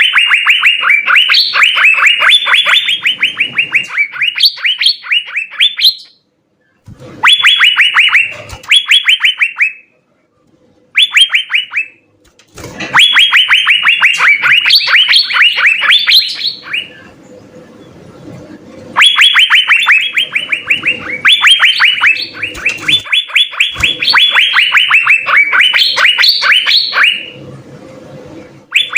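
Asian fairy-bluebirds (cucak biru) singing in full, vigorous song: rapid runs of short, sharp, downward-sliding notes, several a second, in bursts of a few seconds separated by brief pauses.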